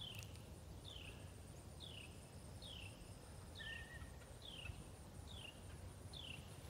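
A songbird whistling a string of short down-slurred notes, about one a second, faint over low outdoor background noise, with a brief level whistle about halfway through.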